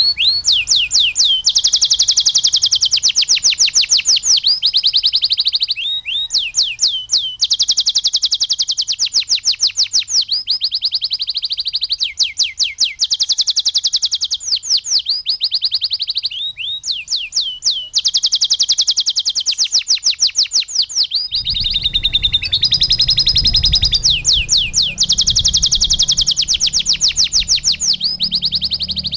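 Domestic canary singing a continuous song of rapid trills and rolls, each a fast run of repeated high notes, changing from one trill to the next every second or two. About two-thirds of the way through, a low background sound joins underneath.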